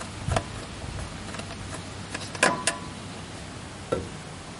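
Light clicks and knocks of parts being handled while fitting the air cleaner cover on a sawmill's small engine, with a louder clack about two and a half seconds in that rings briefly.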